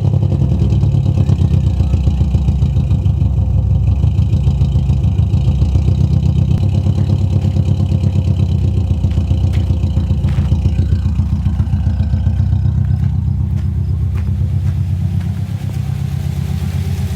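Subaru flat-four engine idling loud and steady just after starting, on freshly fitted spark plugs, through an exhaust that is basically a straight pipe since the muffler blew apart; it sounds smooth, with no misfire. The idle eases down slightly near the end.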